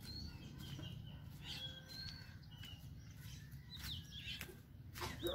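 Birds chirping now and then in short calls over a low steady rumble. A louder call sweeps down in pitch near the end.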